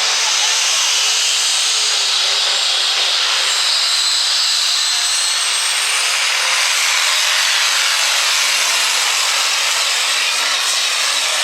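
Super stock diesel 4x4 pulling truck running flat out under load, a loud steady engine blare with a high whine rising in pitch midway.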